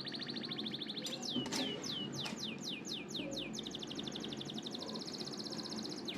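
Rapid high chirping trills with a run of about a dozen quick falling chirps about a second in, over a low steady hiss. It sounds like a bird or insect-style background track rather than any cooking sound.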